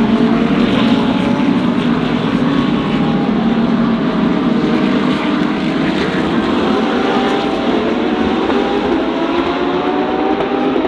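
A field of DTM GT3 race cars with six-, eight- and ten-cylinder engines running together, a dense, loud drone with several overlapping engine notes slowly rising in pitch as the pack gathers speed.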